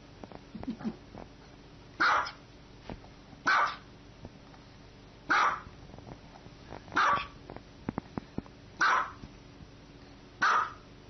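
Small dog barking: six short single barks, spaced about one and a half to two seconds apart.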